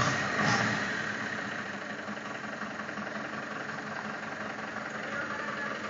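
Tractor engine running, a little louder in the first second and then settling to a steady run.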